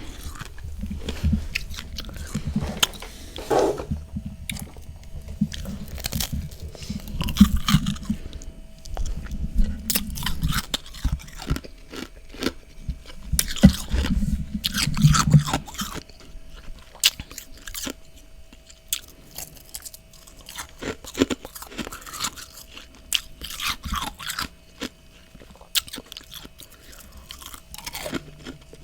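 Close-up chewing and crunching of freezer frost in the mouth. The crunching is dense for about the first half, then thins to sparser, softer crunches.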